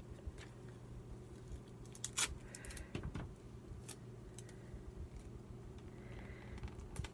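Paper and clear tape being handled at a desk: small clicks and rustles as tape is pulled and pressed down, with a sharp crackle about two seconds in, over a low steady hum.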